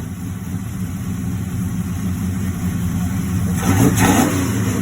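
Car engine running steadily at a low pitch, with a short, louder rush of sound about three and a half seconds in.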